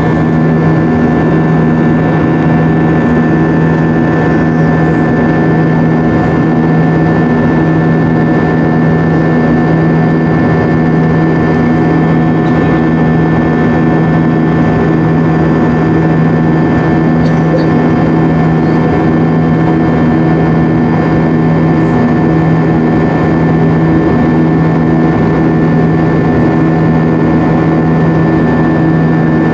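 Airbus A320-232's IAE V2500 jet engines droning steadily as heard inside the passenger cabin: a loud, even rush with a constant low hum and several higher steady tones that neither rise nor fall.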